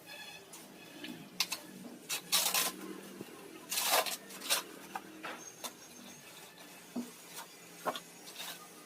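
Packaging and fan parts being handled during unboxing: scattered rustles, clicks and light knocks.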